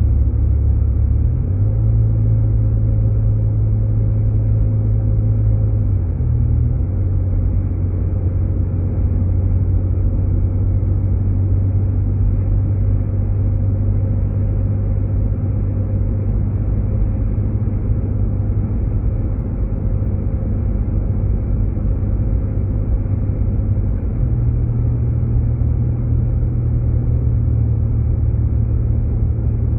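Jeep Grand Cherokee driving, heard from inside the cabin: a steady low drone of engine and road rumble. Its low pitch shifts a few times, about a second and a half in, around six seconds, and again near twenty-four seconds.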